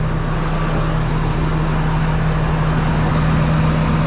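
Combine harvester's engine running steadily at idle, with a constant low hum over a wash of machine noise.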